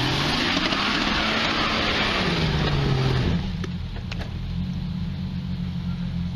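Off-road vehicle's engine revving hard under load, with a rush of noise over it; the revs climb, hold, then fall away about three seconds in. After that the engine runs on lower and steadier.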